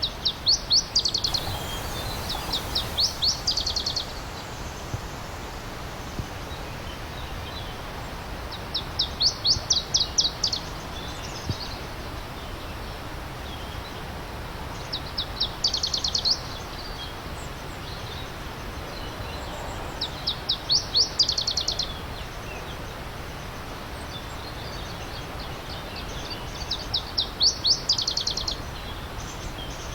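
A songbird singing a short, fast trill of rapid high notes, repeated six times a few seconds apart, over the steady rush of a flowing stream.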